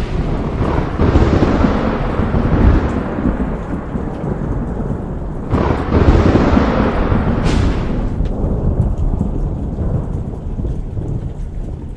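Thunderstorm: two long rolls of thunder, the first swelling about a second in and the second around five and a half seconds in, over steady heavy rain.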